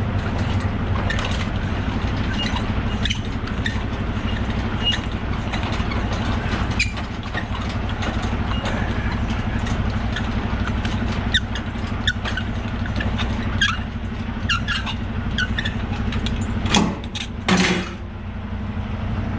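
Semi truck's diesel engine idling steadily, with scattered clicks and knocks over it and two short, louder noises near the end.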